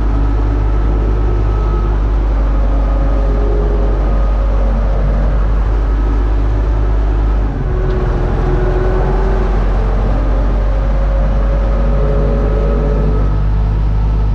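UTB Universal U650 tractor's four-cylinder diesel engine running steadily while pulling a disc harrow. The sound dips briefly about halfway through.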